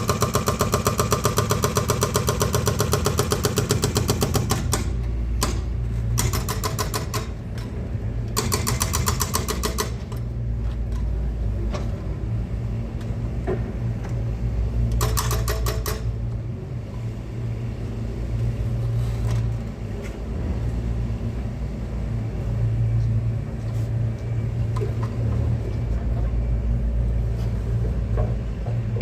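Excavator's diesel engine running steadily, with spells of rapid, even clattering: a long one at the start and shorter ones a few times after.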